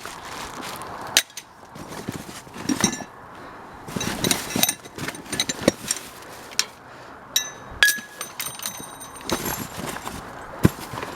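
Debris being rummaged through in a dumpster: scattered knocks, scrapes and rustles of junk being shifted. About two-thirds of the way in come a few hard clinks that ring on briefly.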